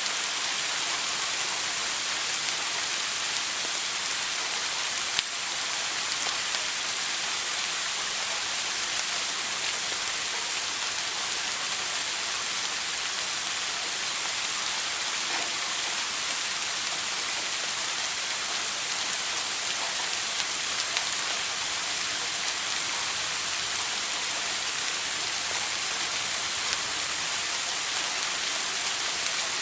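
A shower running steadily: water spraying and splattering onto a hard surface, an even hiss with occasional individual drops ticking through.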